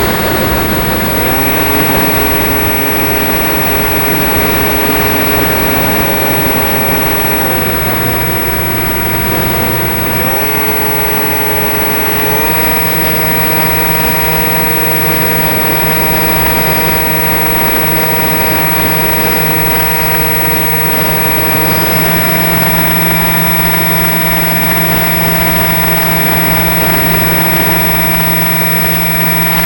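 HobbyZone Aero Scout RC plane's electric motor and propeller whining in flight, the pitch stepping up and down several times as the throttle changes, over a steady rush of wind noise.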